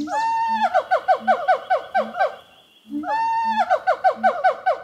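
A whistle-like phrase repeated in a loop: a long arching note, then a quick run of short falling chirps over an even low pulse. The phrase starts over about every three seconds after a brief break.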